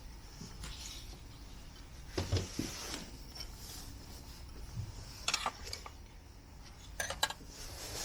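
Scattered clinks and knocks of small hard objects being handled, in three short clusters over a steady low background.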